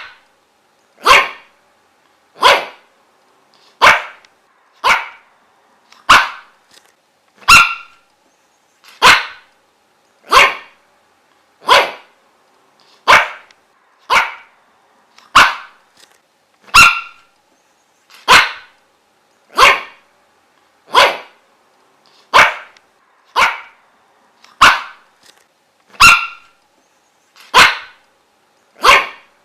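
A dog barking single sharp barks at a steady pace, about one every second and a bit, some twenty in a row, with a faint steady hum between the barks.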